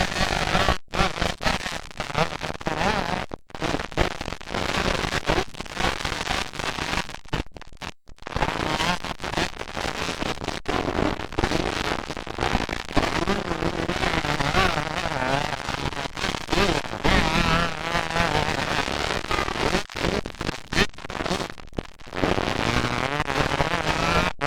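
Motocross dirt bikes racing, their engines revving and popping in a dense crackle with rising and falling pitch.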